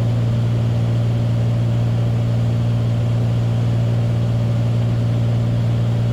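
Beechcraft Bonanza's piston engine and propeller droning steadily in flight, a constant low hum with a few fainter steady tones above it.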